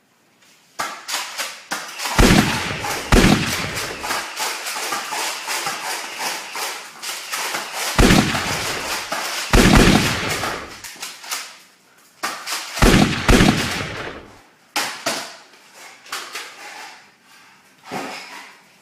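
Rapid gunfire sound effects, with dense runs of cracks and three pairs of deep booms.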